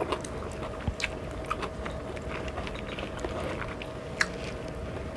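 A person chewing and eating, with scattered small clicks and mouth sounds over a faint steady hum.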